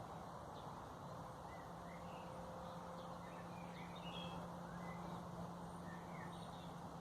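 Faint, scattered short bird chirps over a steady background of outdoor noise with a low, constant hum.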